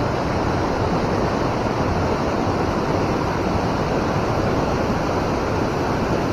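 Steady rush of river water flowing through shallow rapids, an even noise with no breaks.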